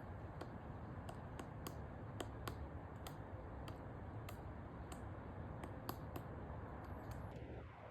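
Pileated woodpecker pecking at wood: sharp, irregular taps, about two or three a second.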